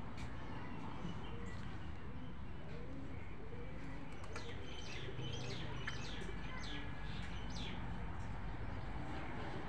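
Birds calling, with a run of short, high, falling chirps about halfway through, over a steady low background rumble.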